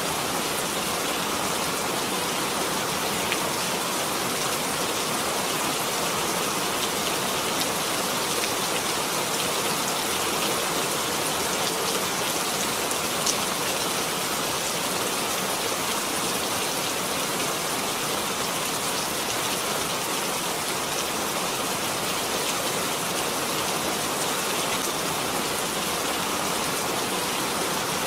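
Steady rain falling, a dense even hiss of drops with a few faint sharper patters.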